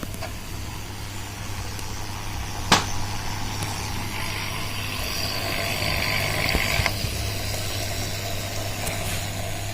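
Water hissing and fizzing as a homemade water heater works in it, louder for a few seconds in the middle, over a steady low hum, with one sharp click a little under three seconds in.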